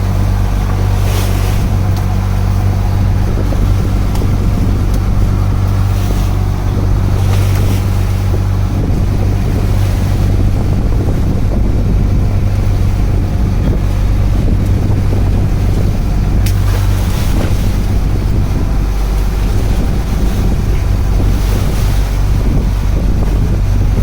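Fishing boat's engine running at a steady drone, with wind buffeting the microphone and waves washing against the hull.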